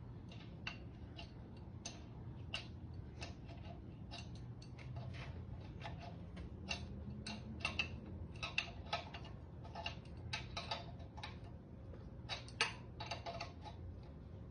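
Irregular small metallic clicks and ticks of a wrench tightening threaded oil-line fittings and reducers on an engine block, over a low steady hum.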